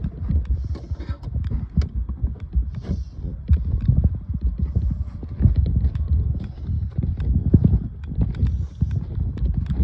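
Footsteps of a person walking, a run of irregular knocks with scuffing between them.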